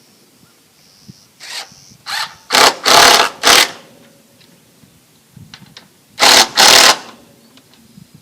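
Power drill driving screws, run in short bursts: five quick bursts in a row in the first half, then two more a few seconds later.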